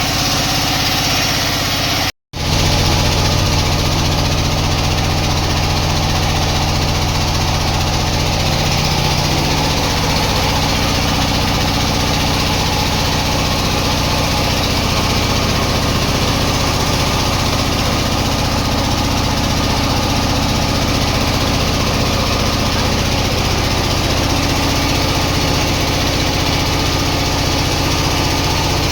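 Sawmill machinery running with a steady, even engine hum, broken by a brief dropout to silence about two seconds in.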